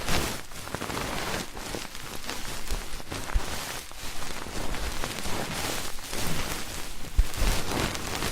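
Ear-cleaning ASMR sounds: an ear pick scratching and rustling close against the microphone, a dense continuous crackle with a few sharper taps.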